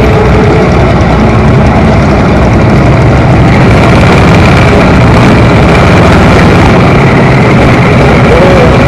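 Motorcycle engine running steadily while the bike is ridden, loud, with a dense low rumble of road and engine noise throughout.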